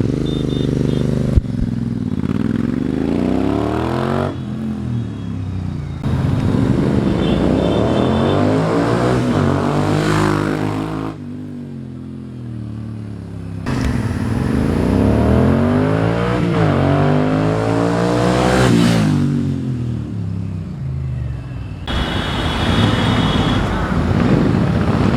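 Royal Enfield Interceptor 650's parallel-twin engine through an aftermarket Powerage Performance exhaust with the dB killers removed, accelerating past in several fly-by passes cut together, its pitch climbing and dropping through gear changes. The note is bassy rather than harsh.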